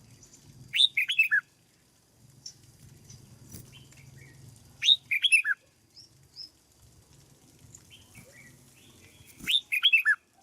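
Red-whiskered bulbul singing: three short, loud phrases of quick falling whistled notes, about four seconds apart, with softer chirps between them.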